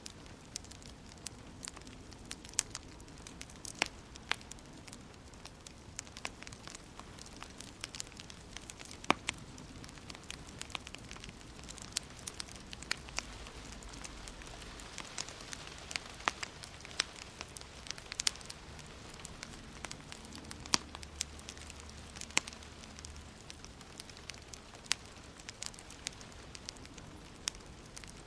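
Wood fire crackling in a fireplace: irregular sharp pops and snaps, a few louder than the rest, over a steady soft hiss.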